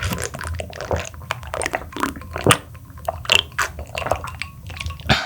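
Close-miked eating: wet chewing and biting with many irregular short clicks and smacks of the mouth.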